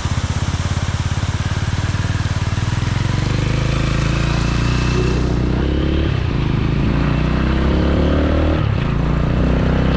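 Motorcycle engine running at low revs with a fast, even beat, then accelerating: its pitch climbs steadily from about halfway through.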